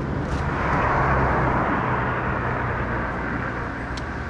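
A car's engine running steadily while the car sits stuck in mud, with a rush of noise that swells about a second in and then eases off. A short click near the end.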